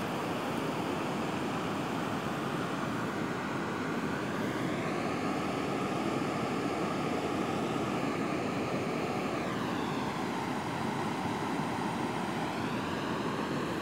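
Steady rushing noise, with a faint engine hum underneath whose pitch rises and falls a few times.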